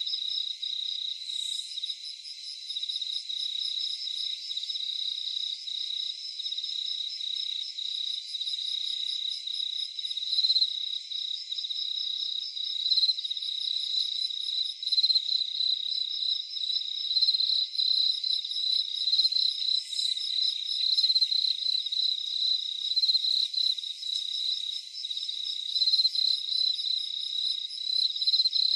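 Crickets chirring steadily in a rapid, even pulse at a high pitch, with a second, higher-pitched insect trilling in short bouts over the top.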